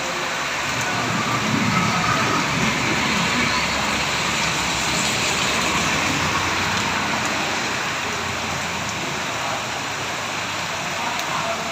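Heavy rain pouring down steadily. A low rumble swells about a second in and fades away over the next several seconds.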